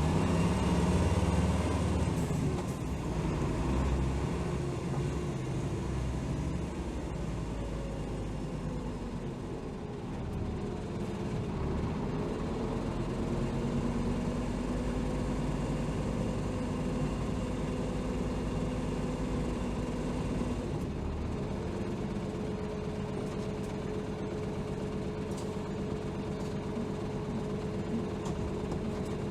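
Diesel engine of a 2007 Hino Rainbow HR city bus (BDG-HR7JPBE) running on the road, heard from inside the bus. The engine is loudest at the start, its note rises and falls in the middle, then holds steady while cruising for the last third.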